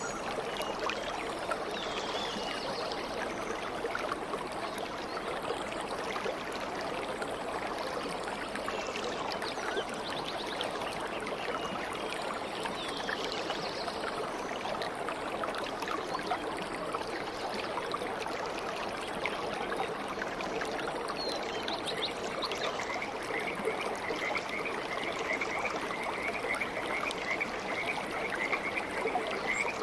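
A stream running and babbling steadily, with scattered high bird chirps over it and a fast pulsing trill that starts about two-thirds of the way through.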